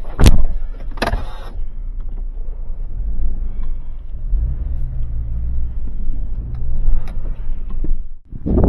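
Nissan Sentra four-cylinder engine running as the car is moved to be parked, a steady low rumble, with two sharp knocks near the start. The rumble drops away abruptly just before the end.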